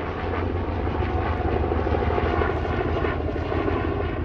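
Helicopter flying over, its rotor and engine running steadily at an even level.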